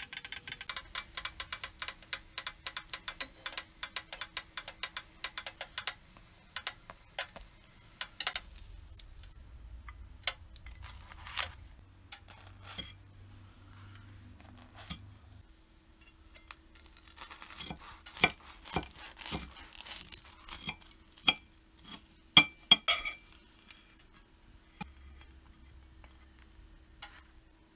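Bread sandwich frying in a buttered pan, a dense run of small crackles that thins out over the first few seconds. Later comes a scattered series of sharp clinks and taps of cutlery and a plate, loudest about twenty seconds in.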